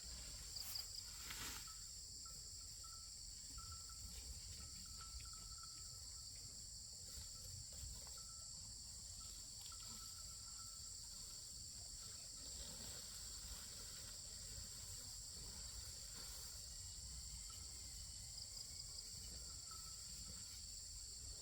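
Insects chirring in a steady high-pitched drone, faint, over a low rumble, with a weak pulsing call repeating through the first half.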